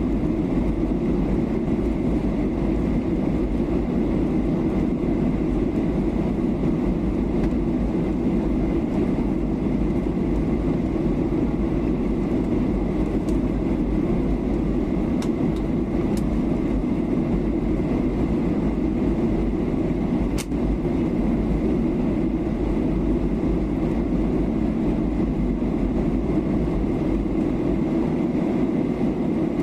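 Steady cabin noise of a Boeing 737-800 airliner in flight during descent: a deep, even rush of engine and airflow heard from inside the passenger cabin, with a faint steady whine and a few faint ticks.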